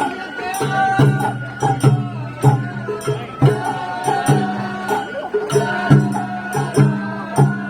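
Sawara-bayashi festival music played from a float: a bamboo flute melody over repeated taiko drum strikes.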